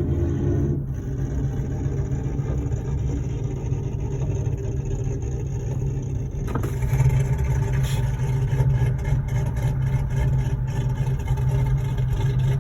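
Chevy Malibu running and moving slowly, a steady low engine and road hum heard from inside the car. About six and a half seconds in there is a click, after which the noise turns brighter with scattered crackles.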